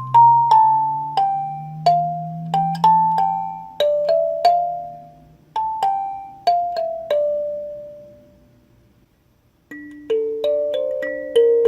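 Yubbax K17M kalimba played by thumb: a stepwise falling melody of plucked metal tines, each note ringing and fading out. It stops for a moment about eight seconds in, then a new phrase begins.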